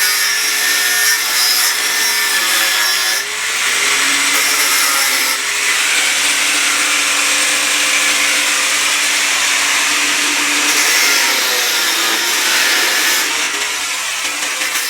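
An electric hand power tool running under load, with a strong hiss over a motor tone that sags and recovers as it bites. The sound breaks briefly a few times, about three seconds in, again a little later, and near the end.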